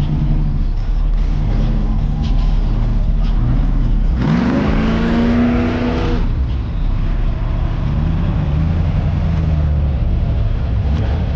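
Car engine idling with a deep exhaust rumble, revved once about four seconds in: the pitch rises, is held for about two seconds, then falls back to idle.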